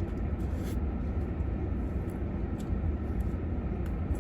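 A steady low rumble, with faint mouth clicks from chewing a crispy chicken sandwich scattered through it.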